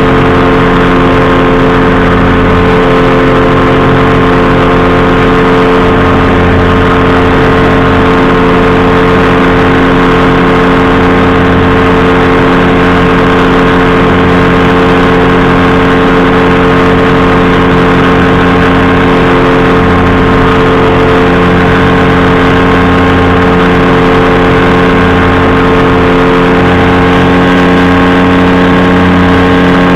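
Powered parachute's engine and propeller running loud and steady, holding one speed throughout.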